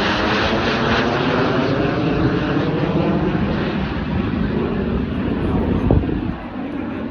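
Snowbirds' CT-114 Tutor jet trainers flying past, a loud steady jet rush whose banded tone slides downward as they go by, easing off about six seconds in. A short knock comes just before it fades.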